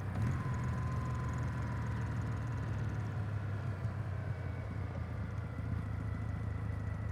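Kawasaki W800's air-cooled parallel-twin engine idling steadily while the bike stands pulled over.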